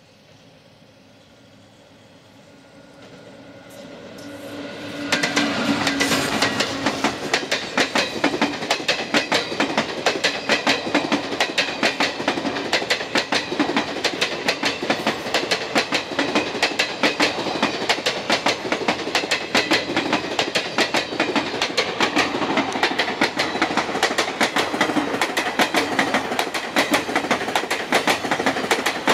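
Passenger train growing louder as it approaches, then its coaches running past close by, the wheels clacking rapidly and steadily over the rail joints.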